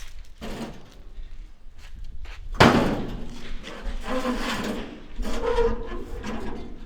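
A loud thud about two and a half seconds in, among other knocks and clatter.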